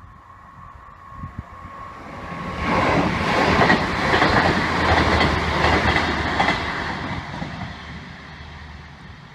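A train passing at speed: its noise swells up about two seconds in, peaks with the clatter of wheels over the track, and fades away near the end.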